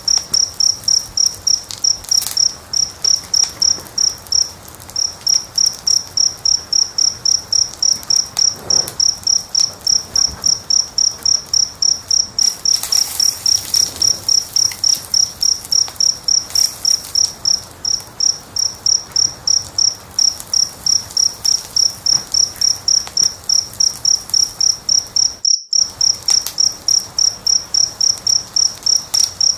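A cricket chirping steadily, short high-pitched pulses about three to four a second, with faint crackles of a wood fire beneath. The whole sound cuts out for a split second near the end.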